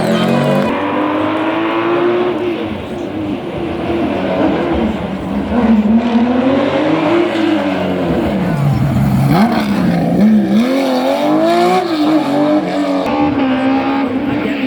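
Historic rally car's engine revving hard, its pitch climbing and falling again and again with gear changes and lifts, dropping deep about halfway through before winding back up.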